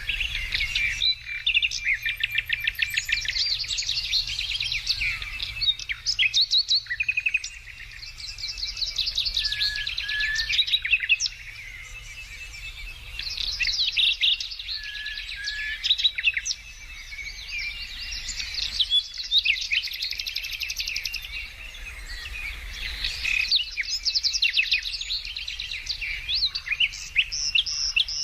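Several birds singing at once: quick chirps and trilled phrases that come and go every few seconds, over a faint low hum.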